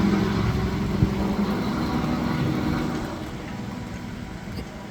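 A motor vehicle's engine running with a steady low hum that fades away from about three seconds in, with a single knock about a second in.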